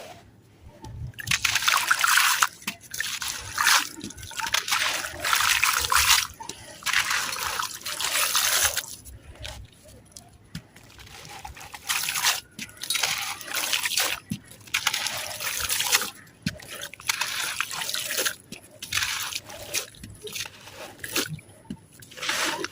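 Dry sand-cement crumbles being crushed and breaking apart, in about a dozen separate bursts of crunching and trickling grit, each half a second to two seconds long.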